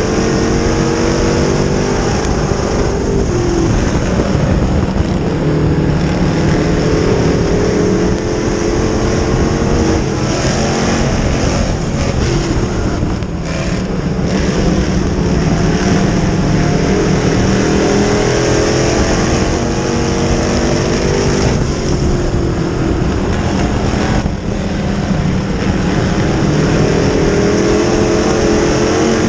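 Dirt modified race car engine running hard at speed, its pitch climbing and dropping again and again as the throttle opens and lifts.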